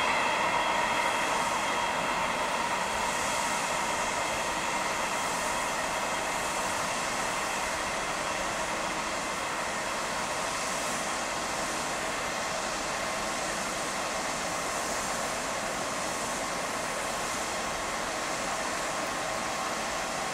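Freight train of tank wagons rolling by and moving away, a steady wheel-on-rail rumble that slowly fades. Faint ringing tones from the wheels die out in the first second or two.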